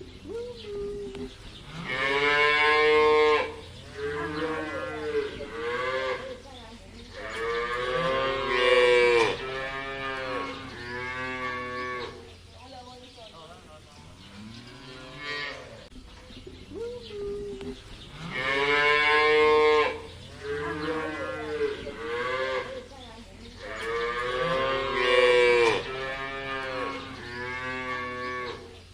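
Cattle mooing: a run of long, pitched moos, one to two seconds each and some running into one another, with the same run of calls coming round again about halfway through.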